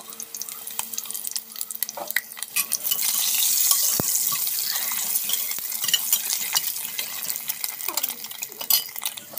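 Boiled eggs sizzling in hot spiced oil in a pot, with a steel spoon stirring and scraping against the pot. The sizzle swells a few seconds in, and there is a sharp knock of the spoon on the pot about four seconds in.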